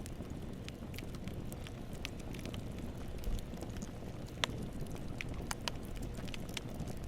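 Campfire burning: a steady low rumble of flames with irregular sharp crackles and pops of burning wood, one louder pop about halfway through.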